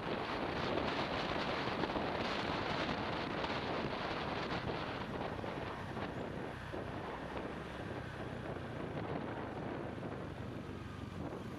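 Wind rushing over the microphone of an action camera on a moving motorbike, with the bike's engine running underneath. The rush eases a little about halfway through.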